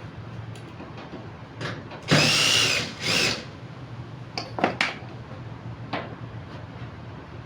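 A small power tool's motor runs in two short bursts, about a second and a half-second long, its whine rising and then holding. A few sharp clicks and taps follow over a low steady hum.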